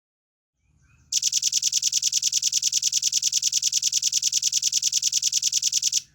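Velvet-fronted nuthatch singing a fast, even trill of high notes, about ten a second. It starts about a second in, lasts about five seconds and stops abruptly.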